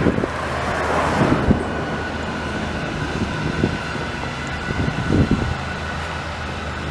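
Road traffic: a vehicle passes, swelling and fading about a second in, over a steady low engine hum.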